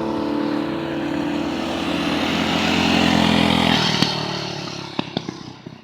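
Small GY6 scooter engine running at a steady speed. Its sound fades out over the last couple of seconds, with a few clicks near the end.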